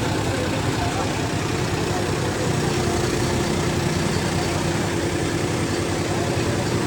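Diesel tractor engines running steadily, with indistinct voices mixed in. A steady tone sets in about two and a half seconds in.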